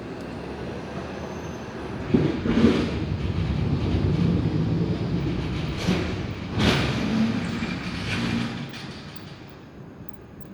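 Thunder: a rolling rumble with sharp cracks that builds about two seconds in, peaks twice more around the middle, and dies away near the end.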